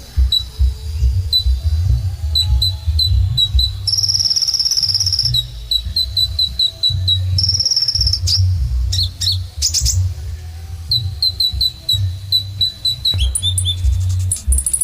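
Kolibri ninja sunbird singing a fast run of high, sharp chips, broken twice by a short buzzy trill, with a low pulsing rumble underneath.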